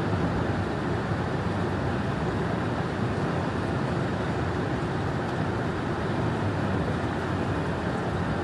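Steady road noise inside a moving car at highway speed: tyre and wind rumble with engine drone, unchanging throughout.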